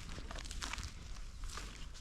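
A few soft crunches and rustles in dry forest-floor litter, like slow steps or something moving among old logs, over a low rumble.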